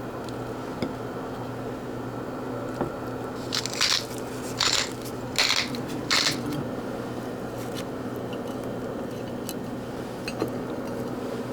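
A steady appliance hum, with four short scraping or rustling sounds about a second apart in the middle.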